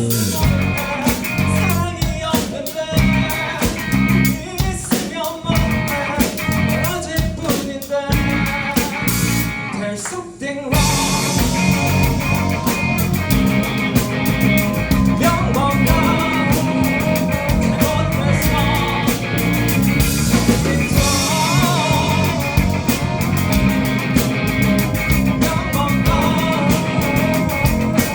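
Live rock band of drum kit, electric guitars, bass and keyboard playing an instrumental passage. For about the first ten seconds it plays choppy, stop-start hits, then breaks off briefly and comes back in with the full band playing steadily.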